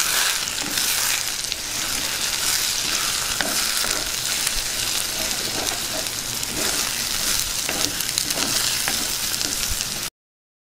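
Egg and spring onion mixture sizzling in hot oil in an earthenware pot while a wooden spatula stirs it, with faint scrapes and ticks of the spatula against the pot. The sizzle is steady and cuts off suddenly near the end.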